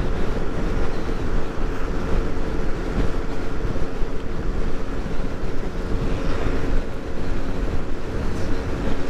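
Scooter engine running steadily under way, mixed with wind rushing over the microphone.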